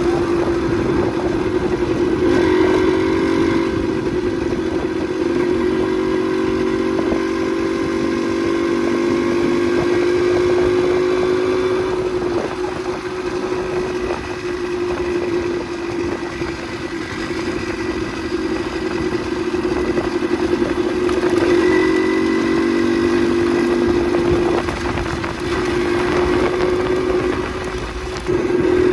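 Motorcycle engine running steadily while riding, its pitch shifting a few times as the throttle and speed change, with a brief drop just before the end.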